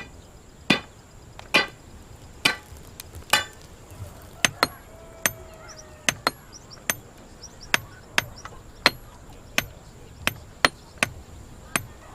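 Stonemason's hammer striking stone in an uneven run of sharp blows, about one to two a second.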